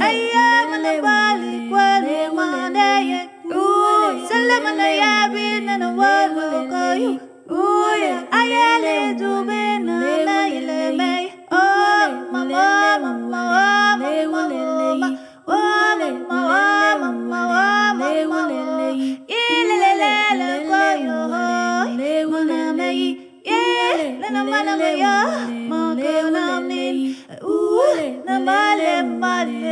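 Music: a singing voice in repeated phrases that slide up and down over a held low note, with no words the transcript could pick out.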